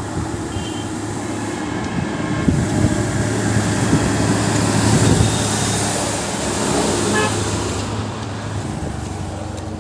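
Road traffic on a highway: vehicles running past, swelling and fading, with a brief horn toot about seven seconds in.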